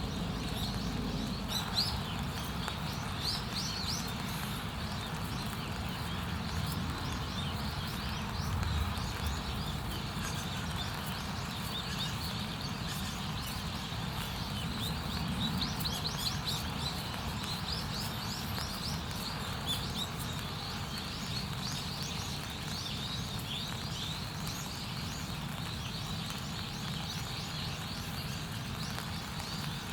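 Small birds chirping in quick repeated clusters, over a steady low rumble with scattered faint crackles.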